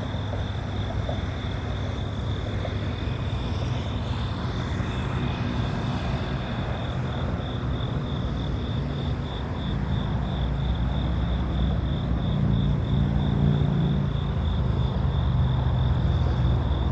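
Norfolk Southern diesel-electric locomotives running light, their engines rumbling at idle and then growing louder about nine seconds in as they throttle up to start moving. A high, rhythmic chirp pulses steadily in the background.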